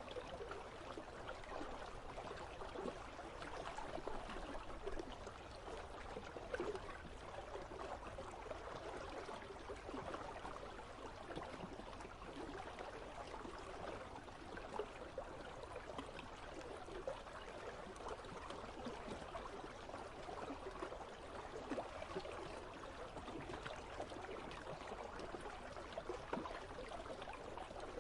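Icy river flowing steadily: a constant, even rush of running water.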